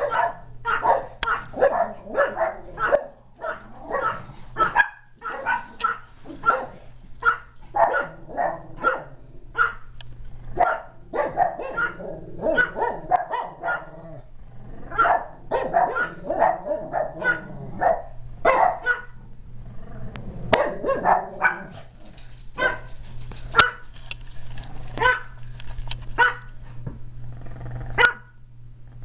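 Several dogs barking in a frenzy, with rapid, nearly continuous barks that overlap one another.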